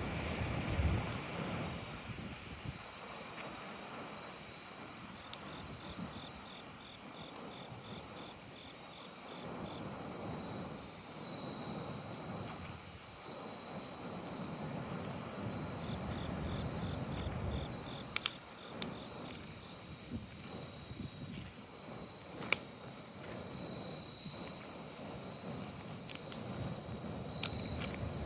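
Autumn night insects chirring in a steady high-pitched chorus, with a second pulsing trill slightly lower, over a soft low rumble. A few sharp pops from the bonfire stand out late on.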